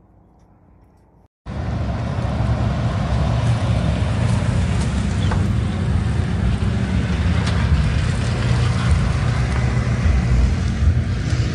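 A car engine running loud and deep, cutting in abruptly about a second and a half in after a faint stretch.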